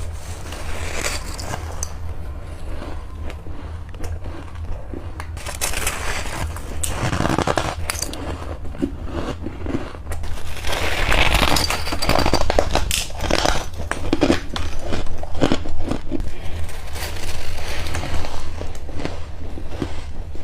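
Ice being bitten and chewed: a string of crunches and cracks, denser and louder in the second half.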